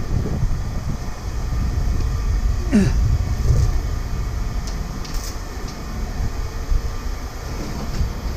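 Steady low mechanical rumble, with a brief faint falling sound about three seconds in.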